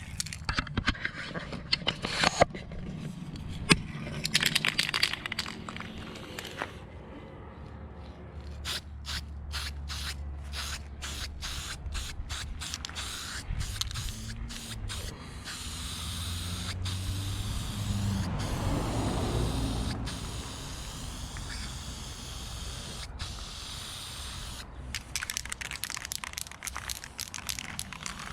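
Aerosol spray can of satin black epoxy enamel: rapid clicking, then a long spraying hiss through the middle as a coat goes onto a steel bumper, with more clicking near the end. Scraping and knocking sounds come first.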